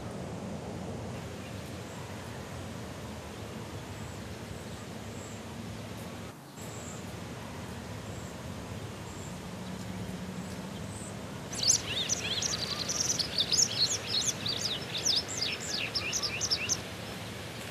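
Steady outdoor background ambience. About two-thirds of the way in, a small bird twitters in a rapid run of short chirps for about five seconds.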